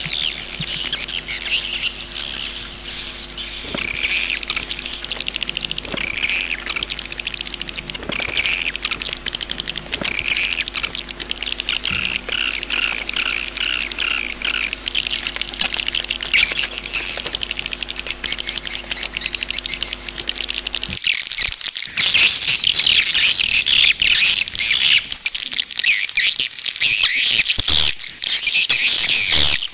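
Swiftlets twittering in a dense, continuous chorus of rapid high chirps. A steady low hum underneath cuts off about two-thirds of the way through, and the chirping becomes denser from there.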